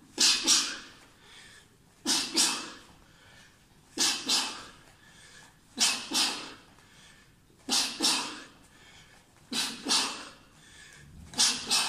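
Sharp, hissing breaths out in quick pairs, about one pair every two seconds, six pairs in all: a boxer exhaling hard with each punch while shadowboxing.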